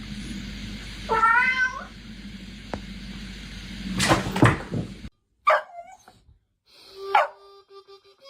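A cat gives one long, wavering meow about a second in, and a loud knock follows about three seconds later. The background hiss then cuts out, and two short cries follow.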